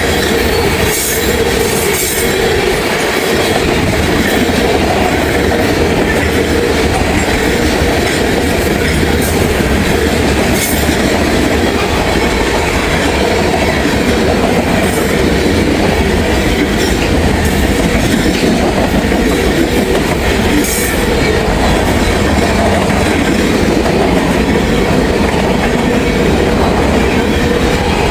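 Freight train tank cars rolling past close by: a steady loud run of steel wheels on rail, with a few sharp clacks over rail joints and a steady squealing tone from the wheels.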